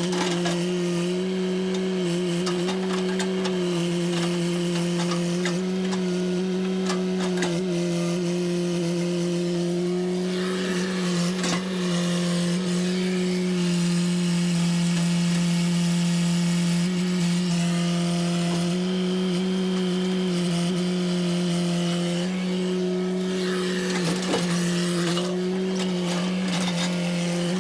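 An engine running steadily at a high, nearly constant speed, with a slight sag in pitch twice.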